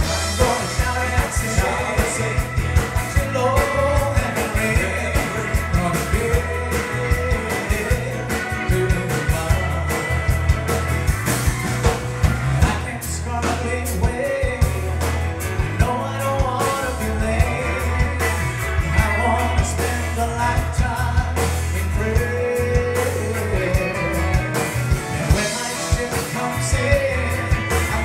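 Band playing an up-tempo gospel-country song with singing over a steady bass line and drum beat.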